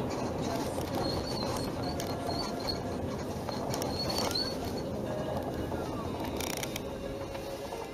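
Repeated short squeaks, some sliding in pitch, from the rubber bushings of a Hyundai Sonata EF's rear upper control arm on the body side as the suspension moves: the bushings are creaking.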